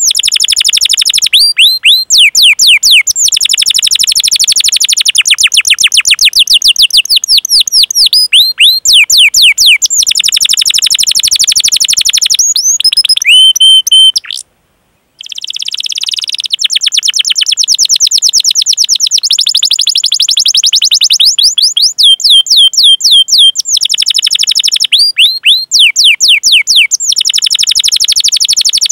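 Domestic canary singing long rolling 'cuit cuit' trills: rapid, evenly repeated high chirps, each sweeping down in pitch, in long unbroken runs. The song stops dead for a moment about halfway, then resumes.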